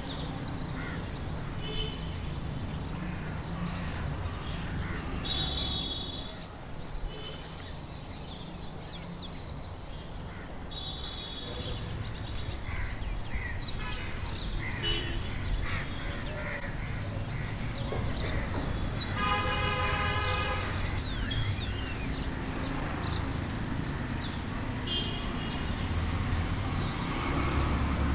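Outdoor ambience: a steady low rumble and a constant high, thin insect-like whine, with scattered bird calls. The longest and loudest call comes about two-thirds of the way through.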